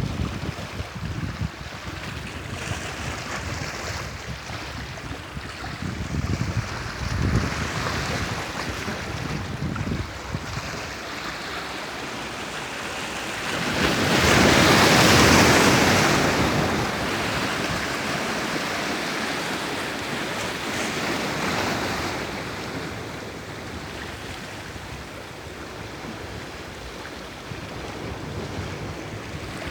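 Sea waves surging and washing in, with one big wave breaking about halfway through and smaller washes either side, and some wind on the microphone.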